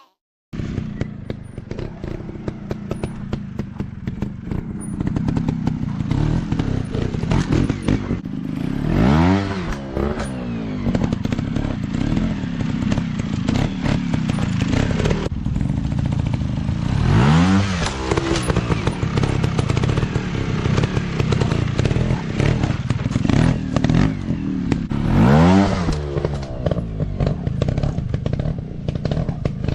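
Off-road dirt bike engines running with a constant clatter and knocking, revving up sharply three times about eight seconds apart.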